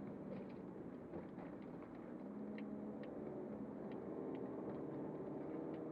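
Turbocharged Toyota Corolla Altis engine running as the car drives, its pitch and loudness rising slowly from about two seconds in as it picks up speed, with a few faint ticks.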